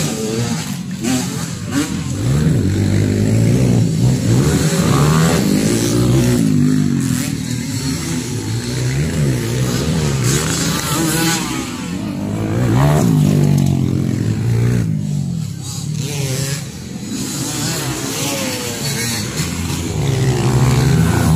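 Several motocross dirt bikes running together, their engines repeatedly revving up and dropping back as they race.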